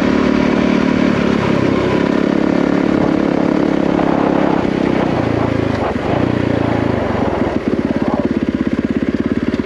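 Yamaha WR450F single-cylinder four-stroke dirt bike engine running steadily under way, then settling to an even, pulsing idle about three-quarters of the way through as the bike slows to a stop.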